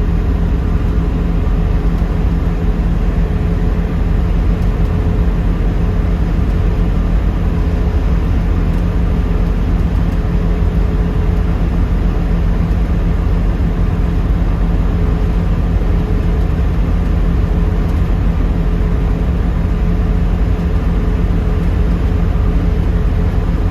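1972 Ford Mustang Mach 1 cruising on the highway: steady engine drone with road and wind noise, even throughout.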